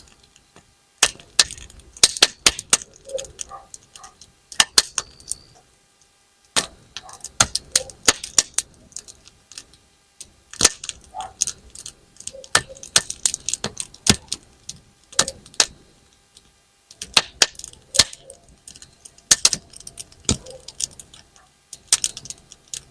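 Wood campfire crackling with sharp, irregular pops that sound like snap-pop firecrackers thrown on the ground, coming in clusters with a few brief lulls.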